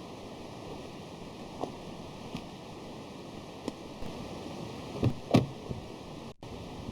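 A few scattered light knocks and clicks over a steady hiss, with a louder pair of thumps about five seconds in.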